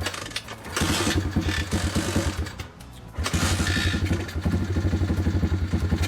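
Pit bike's small engine starting after standing unused a long time, its fuel tap just reopened: it runs for about two seconds, drops out, then catches again and keeps running with a fast, even beat.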